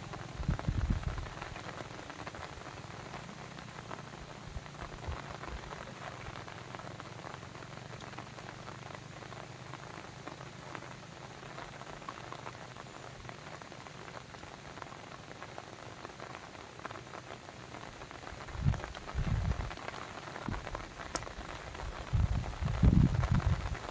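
Steady rain pattering, a dense patter of small drops, with low rumbles near the start and twice near the end.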